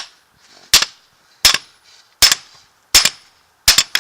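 Hammer blows on steel: six sharp strikes about three-quarters of a second apart, the last a quick double, pounding a universal-joint bearing cap out of a truck driveshaft yoke.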